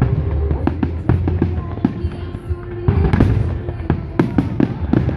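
Fireworks display: many bangs and crackles going off in quick, irregular succession, over music playing with a steady bass.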